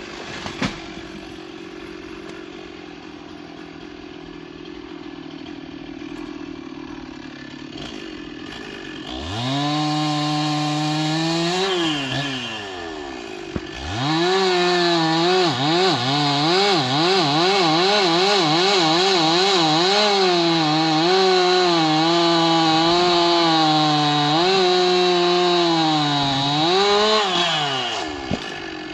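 Two-stroke Stihl chainsaw idling, then revved up about nine seconds in. It eases off briefly, then runs at full throttle for about thirteen seconds, its pitch wavering as the chain cuts into wood, before dropping back to idle near the end.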